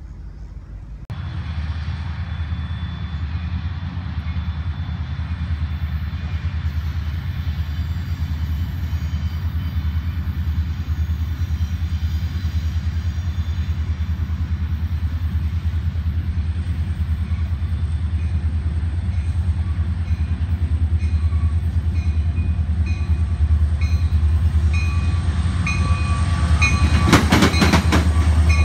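Union Pacific diesel locomotives leading a double-stack freight train approaching, their engine rumble setting in about a second in and building slowly louder. A burst of sharp rail clatter comes near the end as the train draws level.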